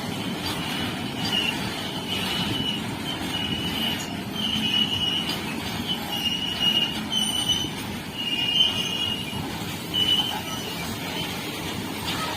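Indian Railways train rolling on the rails with a steady rumble, its wheels giving high squeals that come and go in short stretches for most of the time, stopping near the end.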